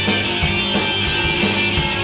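Rock band playing live with electric guitar, bass and drums, a steady drum beat running under held guitar chords, with no vocals at this point.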